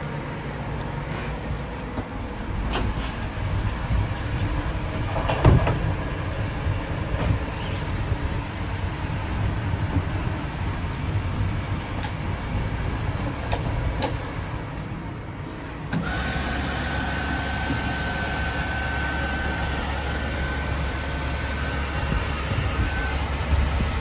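Steady running noise of a moving train heard inside its lavatory, with an automatic sensor tap running water over a hand into a stainless-steel basin. There is a sharp knock about five seconds in. About two-thirds of the way through, the sound changes abruptly to a steadier low hum with a faint steady high tone.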